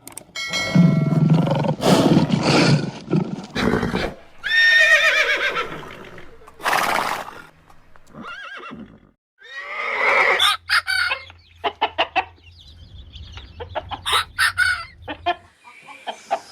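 Chickens clucking and a rooster crowing, heard as a string of separate calls: a drawn-out pitched crow a few seconds in and bursts of short, quick clucks later on.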